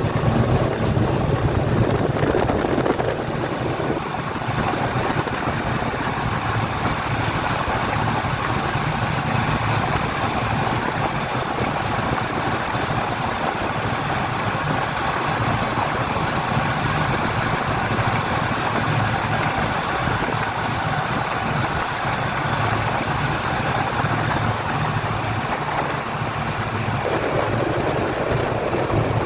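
A passenger speedboat's engine running steadily under way, a continuous hum with a rush of noise over it. The tone shifts about three seconds in and again near the end.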